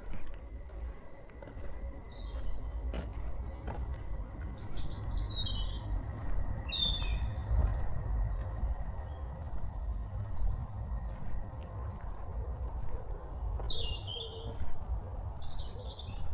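Songbirds chirping: short, high calls scattered throughout, thickest about four to eight seconds in and again near the end, over a steady low rumble and a few faint clicks.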